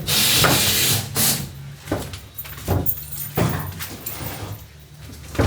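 Rustling and scuffing of PET wool insulation sheets being handled and pushed into the gap between wall panels: a loud rush of rustling for about a second, then a run of short, irregular scuffs.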